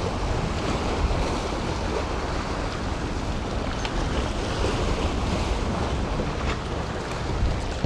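Gulf surf washing against the jetty, with wind buffeting the microphone, steady throughout.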